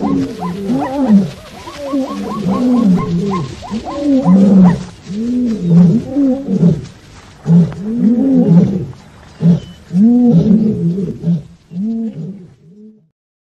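Lion roaring: a series of deep roars, each rising and falling in pitch, about one a second, growing fainter and stopping about a second before the end.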